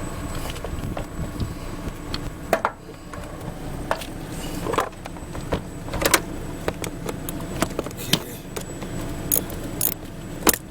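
Irregular sharp clicks and metallic clanks, a few with a short ring, of hand tools and parts being handled.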